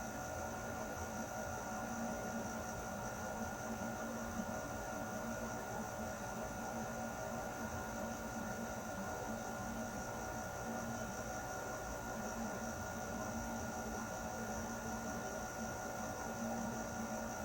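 Air conditioner running steadily: an even whooshing noise with a constant hum and a few steady whining tones, unchanging throughout.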